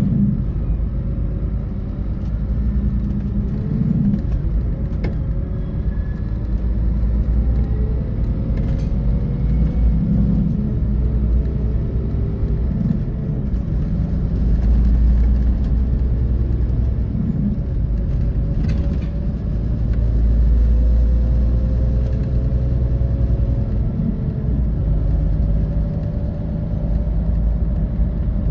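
Scania K450 coach's six-cylinder diesel driving at speed, heard from inside the bus: a steady deep drone and road rumble, with a faint whine that drifts slightly up and down in pitch.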